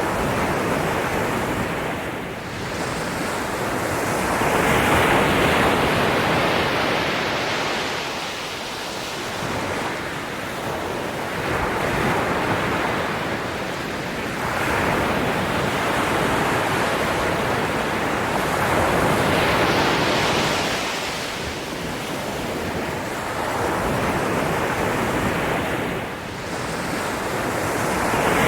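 Ocean waves breaking and washing up the shore, a rushing surf that swells and fades about every four seconds.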